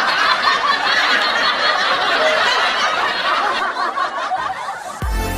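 A large crowd's noise of many voices cheering and shouting, fading slowly over a few seconds. Near the end, electronic dance music with a heavy beat cuts in.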